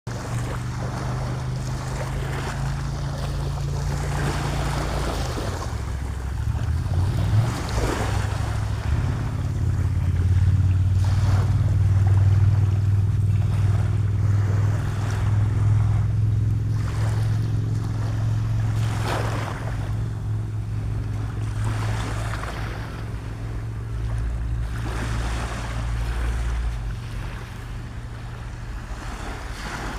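Surf breaking and washing on a beach, with wind rumbling on the microphone.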